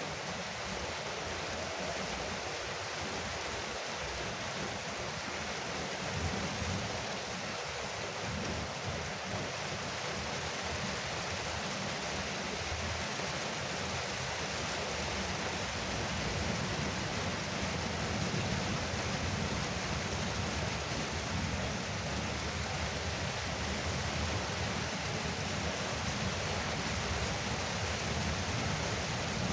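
Rain falling steadily on a veranda roof: a dense, even hiss with a low rumble underneath.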